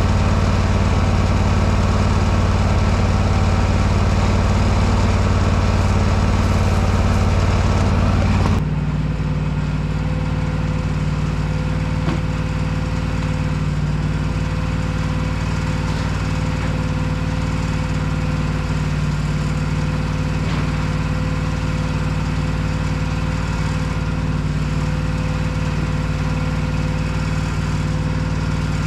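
A small petrol engine running steadily. About eight and a half seconds in, the sound changes abruptly to a slightly quieter, higher-pitched drone.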